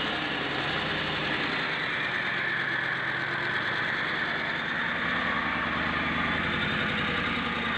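Deutz BF8M1015CP V8 turbocharged diesel running steadily, with a hiss over the engine note. Its pitch shifts slightly about halfway through.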